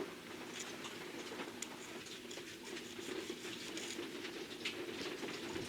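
Faint scattered scratching and small clicks from a small metal model car body being handled, over a low steady hum.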